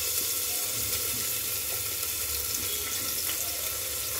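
Paneer cubes sizzling as they shallow-fry in hot ghee in a pressure cooker: a steady hiss.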